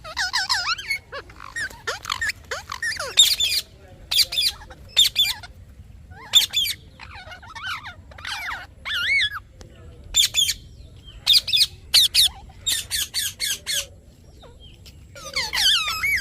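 Parrot calling with repeated short, high-pitched chirps and squawks, rising and falling in pitch, in quick bursts with brief gaps between them.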